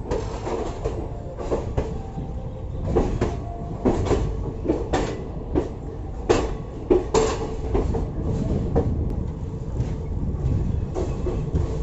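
Passenger train coach running along the track: a steady low rumble of the wheels, with irregular sharp knocks and clatter as they cross rail joints.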